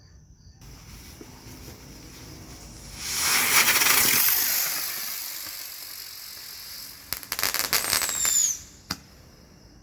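Red Lantern Buzzard Bomb helicopter firework: a faint hiss gives way, about three seconds in, to a loud rushing hiss as the spinner ignites, which fades over the next few seconds. Near the end comes a burst of crackling with a short falling whistle, then one last sharp crack.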